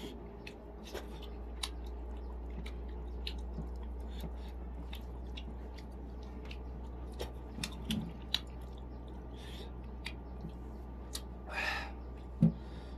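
A person chewing and biting food up close, heard as scattered wet mouth clicks over a steady low hum. Near the end there is one sharp, louder thump.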